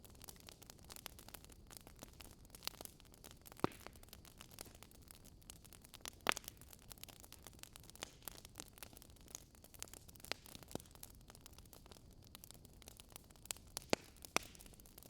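Fire crackling: a faint steady hiss with irregular sharp pops and snaps, a few of them louder.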